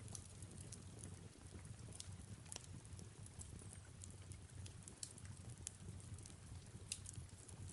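Fireplace ambience: wood fire crackling with many irregular sharp pops over a soft, steady low rumble of flames and soft rain, all faint.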